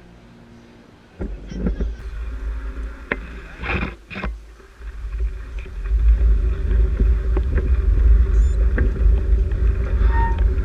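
Wind buffeting the microphone of a camera riding on a moving bicycle, with rumble and several sharp knocks from the bike jolting over the road. The rumble comes in after about a second and grows louder about six seconds in.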